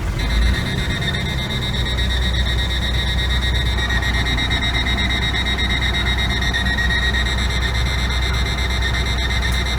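2003 Volvo heavy truck's diesel engine idling steadily just after starting, with a steady high-pitched warning buzzer sounding over it.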